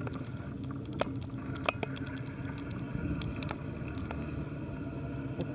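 A bicycle rolling downhill on pavement: a steady low rumble of tyres and air, with scattered clicks and rattles from the bike.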